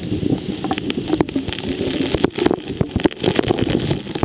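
Waterfall water pouring and splashing, with a dense rushing noise and many sharp crackles of drops and spray hitting the microphone.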